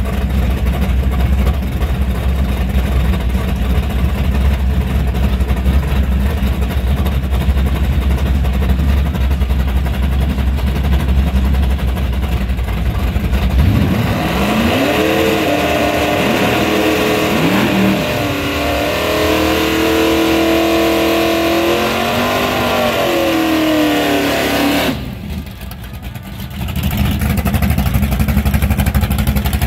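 Drag car's engine idling with a heavy, steady low rumble, then revved repeatedly for about ten seconds from about halfway through, the pitch rising and falling with each blip, before settling back to a rumbling idle near the end.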